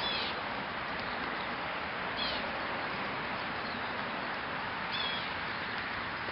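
Three short bird calls, each a quick falling note, spaced a couple of seconds apart over a steady outdoor hiss.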